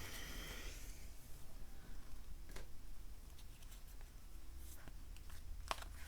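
Playing-style cards being handled on a table: a short sliding rustle right at the start, then a few light taps and clicks.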